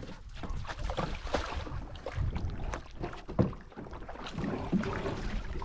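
Canoe being paddled: irregular paddle splashes and water sounds.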